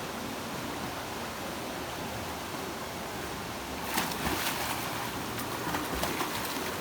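River water rushing steadily, with a run of short sharp water noises from about four seconds in.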